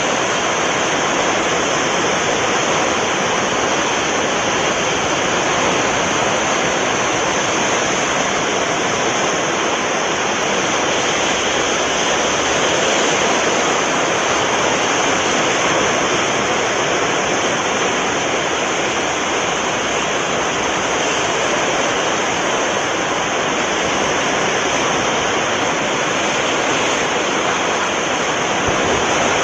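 Sea surf breaking along the shore, a steady rushing wash of water.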